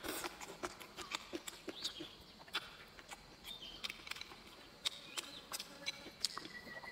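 Close-up chewing of a mouthful of food: a run of soft, irregular clicks and mouth sounds.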